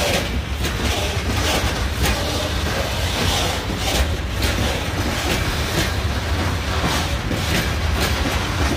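Freight train of tank wagons rolling past, with a steady low rumble and wheels clacking irregularly over the rail joints.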